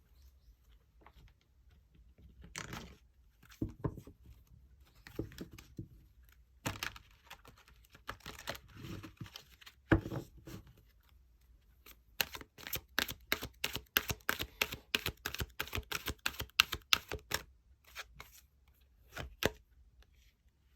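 Tarot cards being handled: scattered rustles and soft knocks for the first dozen seconds, then a quick run of crisp card snaps lasting about five seconds, then a few more knocks.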